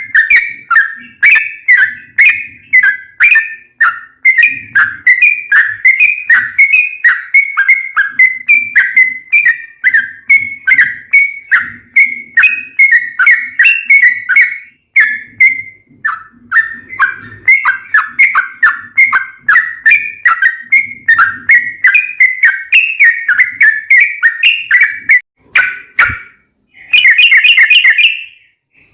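Yellow-vented bulbul (trucukan) song: a long, fast run of short whistled notes, the chattering rolled phrase known as ropel. It breaks briefly about halfway, and near the end there is a harsher buzzy burst.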